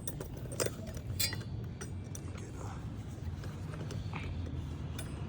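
A few sharp clicks and clinks from roofing work, tools and shingles being handled on the roof, over a steady low rumble.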